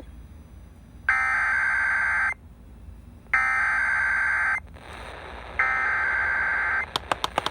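Emergency Alert System SAME header on a weather radio broadcast: three bursts of shrill, warbling data tones, each a little over a second long and about a second apart, which encode the warning that follows. A few sharp clicks come near the end.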